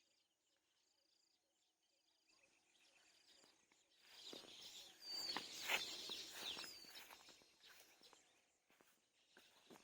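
Faint outdoor birdsong: a soft short high note repeated about once a second, then a louder stretch of rustling and crackling with a couple of sharp chirps from about four to seven seconds in.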